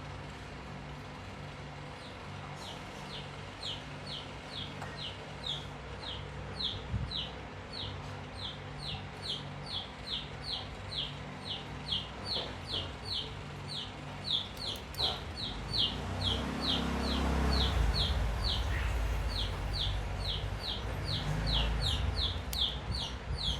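A bird chirping over and over: short, high, falling notes, about three a second, starting a few seconds in. In the second half a low rumble swells and fades twice.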